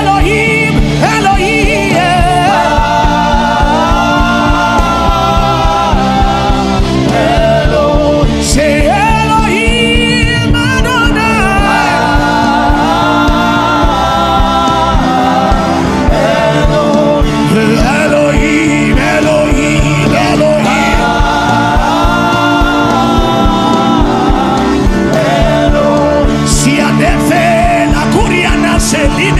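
Gospel worship song: singing with wavering, ornamented melody lines over sustained instrumental backing with a steady beat.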